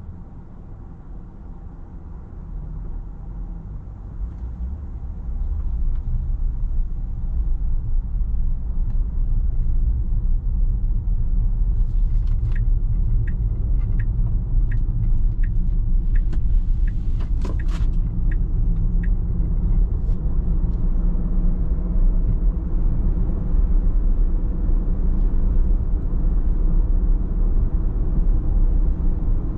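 Car driving, with a steady low road and engine rumble that builds over the first six seconds as it picks up speed. From about twelve seconds in, a run of evenly spaced short ticks, about one and a half a second, lasts some seven seconds, with one sharper sound partway through.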